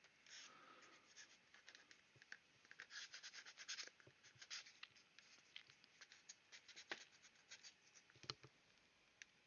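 Faint, irregular scratching and small ticks of a tool working over the surface of a plastic model kit, busiest about three to four seconds in.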